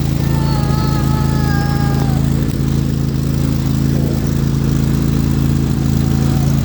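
Lawn tractor engine running steadily at an even speed. A thin high tone sounds briefly over it in the first two seconds.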